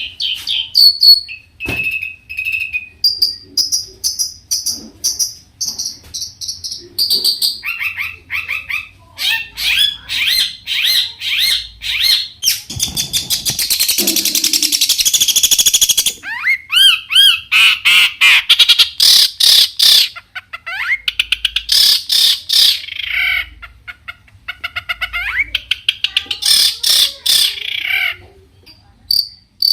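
Long-tailed shrike singing a fast, varied song of repeated chirps, whistled notes and rapid trills, with a harsh, scratchy chatter in the middle.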